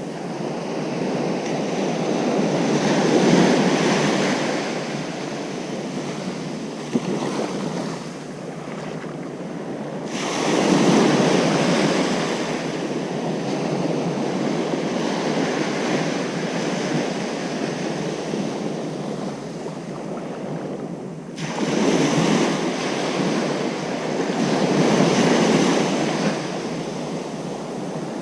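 Ocean surf breaking on a beach, a steady wash of water that swells louder as waves come in, several times over.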